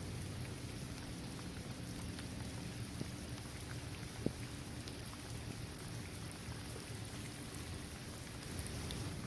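Steady rain falling on a paved basketball court, trees and grass, with scattered drip ticks and one sharper tick about four seconds in.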